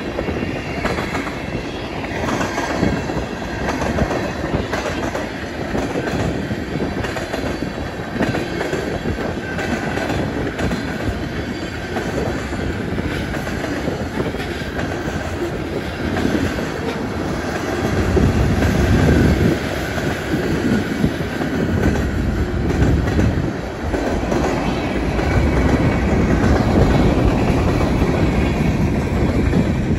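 Freight train cars rolling past, wheels clacking over rail joints with a faint steady wheel squeal. It gets louder a little past halfway.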